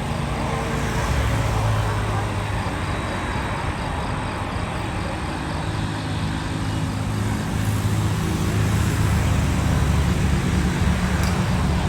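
Jet engines of a Boeing 787-10 airliner running as it taxis: a steady, deep rumble with a hiss on top that grows a little louder in the last few seconds.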